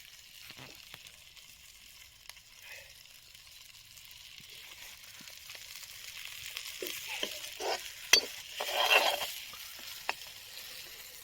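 Chicken sizzling as it dry-fries in a pan while being stirred. The sizzle grows louder past halfway, with a few scraping strokes, a sharp clack about eight seconds in and a louder burst of sizzling just after.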